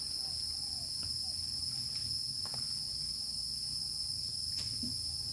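Forest insect chorus: a steady high-pitched shrill drone of many insects such as crickets, starting abruptly at a cut.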